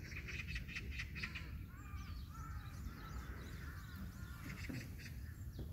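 Birds chirping and calling, many short rising-and-falling calls over a low background rumble.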